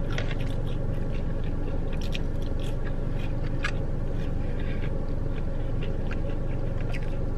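A person chewing soggy waffle fries up close, with scattered small wet clicks and smacks. A steady low hum runs underneath.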